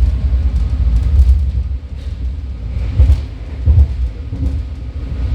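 Low rumble of a BART train car running on the track, heard from inside the car, with a couple of heavier bumps a little past halfway.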